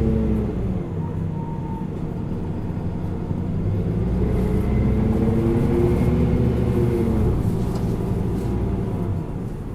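Isuzu Erga LV290N1 city bus's four-cylinder turbo diesel engine, heard from inside the bus while driving. Its pitch drops just after the start, climbs again through the middle and falls away about seven seconds in, then gets quieter near the end.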